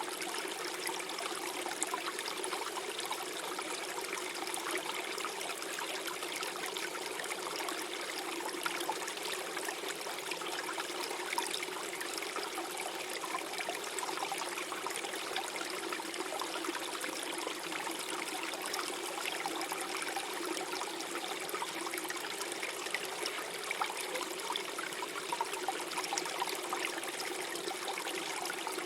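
Small forest stream flowing and gurgling steadily over stones, a continuous trickling and babbling of water.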